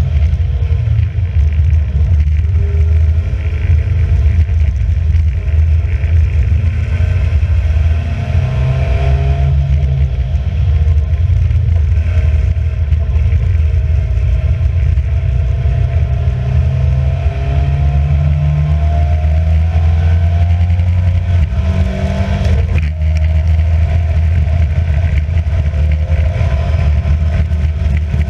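Alfa Romeo Giulia racing car's engine heard from onboard, running hard with the revs repeatedly climbing and dropping through gear changes. A steady hiss sits underneath, from the wet track.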